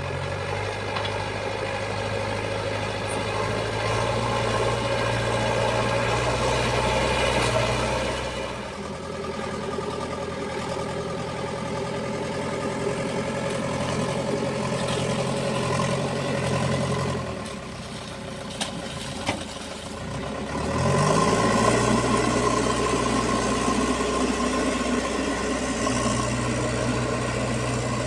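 Heavy diesel engine running under changing load. It eases off about 8 seconds in and drops lower for a few seconds near the 18-second mark, with two sharp clicks there, then revs back up with a rising pitch and runs on steadily.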